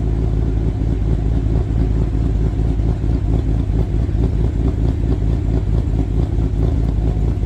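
RAM 2500's 6.4 HEMI V8, fitted with an FRP Hellfire 2.0 camshaft, running steadily at low revs through a Karnage Performance muffler. It gives a deep exhaust note with an uneven pulse.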